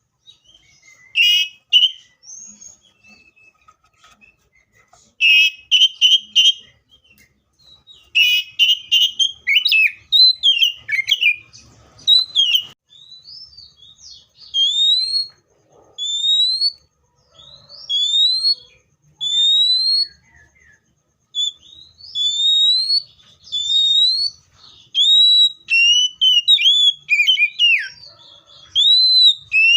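Magpie-robin singing. Harsh scratchy notes in the first few seconds give way to clear rising whistles repeated about once a second, then varied, quicker whistled phrases near the end.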